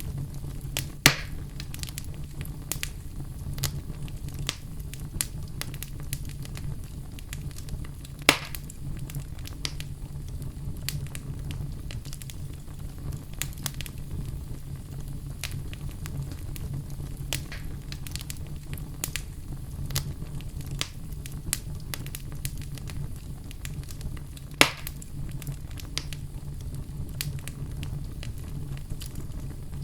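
Wood fire in a fireplace crackling: a steady low rumble with many small crackles scattered throughout and three louder sharp pops spread across the stretch.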